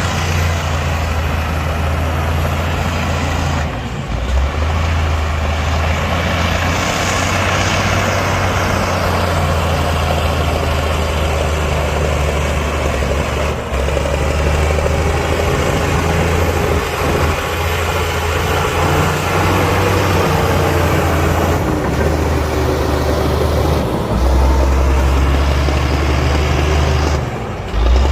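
Heavy diesel earthmoving machinery running steadily at work, its low engine note changing abruptly a few times.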